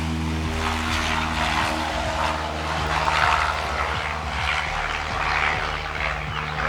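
Aircraft engine running steadily: a low droning hum with a rushing noise over it.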